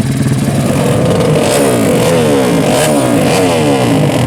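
Small four-stroke drag-race motorcycle engines revving hard, several engine notes rising and falling and overlapping in pitch.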